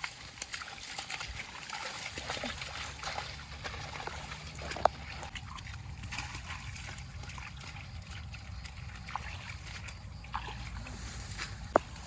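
Water splashing and sloshing, as of wading through shallow marsh water, with a steady low rumble underneath. Two sharp knocks stand out, one near the middle and one near the end.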